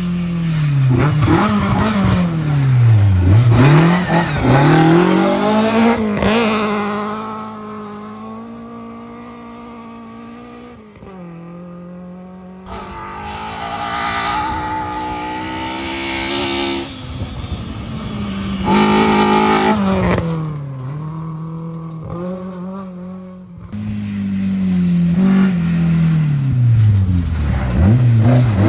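Rally cars driven hard on a gravel stage. The engine notes rise and drop sharply again and again as the cars brake, shift and accelerate through corners. There are several separate passes, with louder and quieter stretches as the cars come close and draw away.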